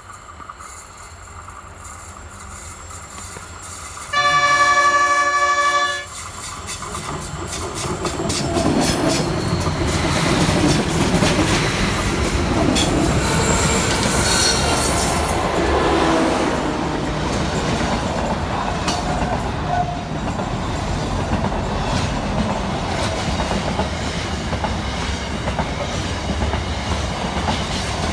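A train horn sounds one chord for about two seconds, the loudest moment. Then a train passes, its rumble and wheel clatter on the rails building from about eight seconds in.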